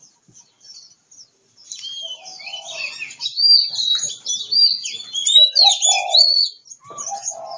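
Oriental magpie-robin (kacer) singing a fast, varied song of sweeping whistles and chirps, with a few lower notes mixed in. It starts about a second and a half in, after a short quiet.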